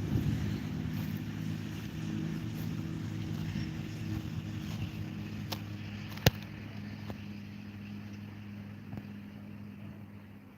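A motor engine droning steadily and slowly fading away, with a single sharp click about six seconds in.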